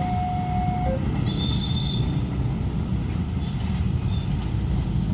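Passenger train passing a level crossing, its wheels and running gear giving a steady low rumble. An alternating two-pitch warning tone, carried on from before, stops about a second in.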